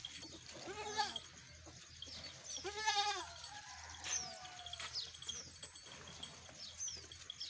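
Goat bleating twice: a short call about a second in and a longer, wavering call about three seconds in.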